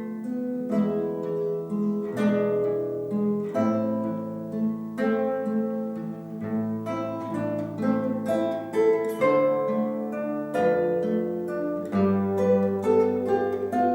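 Instrumental duet music on plucked strings: a melody of plucked notes that ring and fade, over lower held notes.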